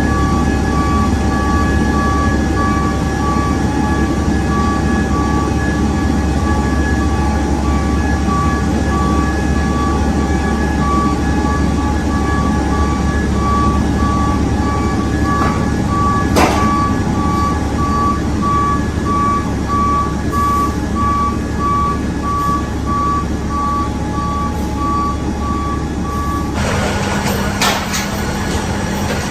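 A vehicle's reversing alarm beeping at an even pace over a loud, steady low engine rumble. About 27 seconds in the beeping stops and a different low hum takes over.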